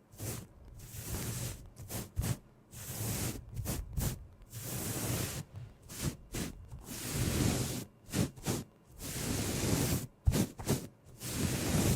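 Close-up rustling and brushing strokes: irregular swishes with short gaps between them, and a few sharp taps, notably two near the end.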